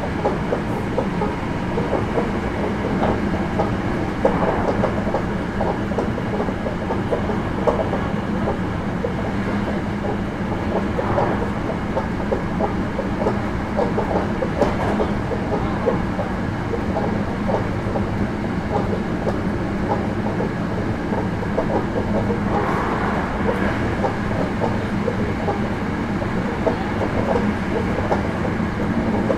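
Hankyu 9300 series electric train running steadily between stations, heard from inside the passenger car: a continuous rumble of wheels and motors with many small irregular clicks and knocks from the track.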